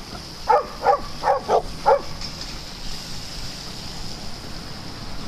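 A dog barking five times in quick succession, then stopping about two seconds in.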